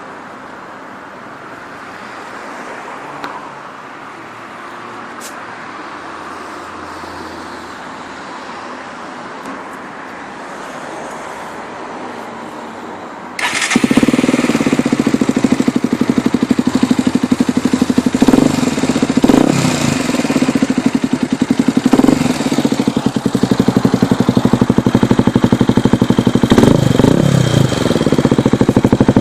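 Motorcycle engine running through a homemade welded exhaust: after a stretch of quieter steady noise it starts suddenly about halfway through and runs loudly with an even firing beat, revved up and back down a few times.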